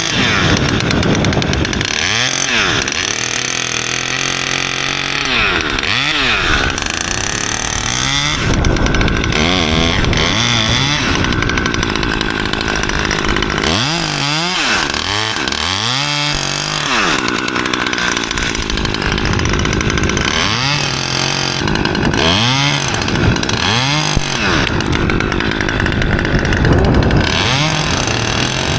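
Chainsaw running and cutting through a pine branch, its engine pitch dipping again and again as the chain bites into the wood and climbing back as it frees up.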